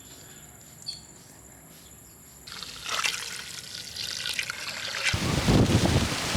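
Heavy tropical rain from a typhoon sets in about two and a half seconds in and grows louder, and near the end strong wind gusts buffet the microphone with a low rumble.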